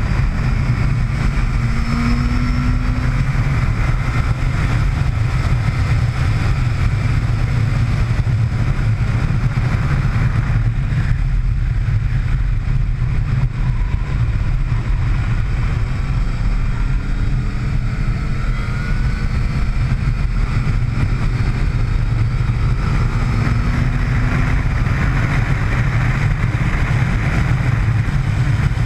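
Motorcycle at speed on a race track, with steady loud wind rush over the onboard microphone. Under it, the engine's pitch rises and falls faintly several times as the rider accelerates and slows.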